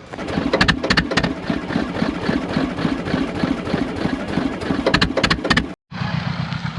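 Vehicle engine running with an uneven, clattering sound; after an abrupt cut about six seconds in, an engine idles more steadily.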